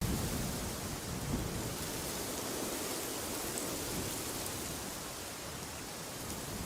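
Wind blowing steadily: an even rushing noise with a low rumble underneath.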